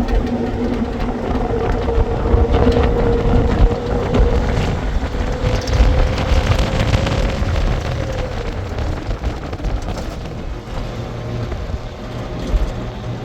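A motor vehicle's engine running steadily under a heavy low rumble, its hum drifting a little in pitch about halfway through.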